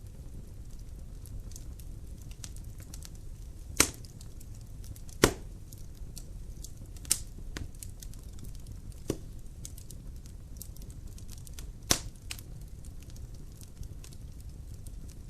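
Wood fire burning in a fireplace, with a low steady rumble under frequent small crackles and several loud sharp pops of the logs.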